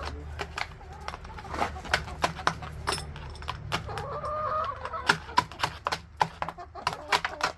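Chickens clucking amid many sharp, irregular knocks and cracks as frozen ice is chipped and broken out of a chicken waterer.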